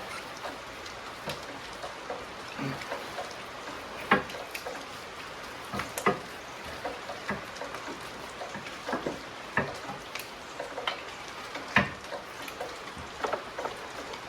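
Irregular clicks and knocks of hand tools, a socket and extension, against metal engine parts in a tight spot at the back of a Ford 5.0 V8. The loudest knocks come about four seconds in and near the end.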